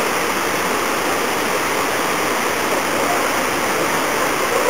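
Water pouring down a waterfall, a steady rushing hiss.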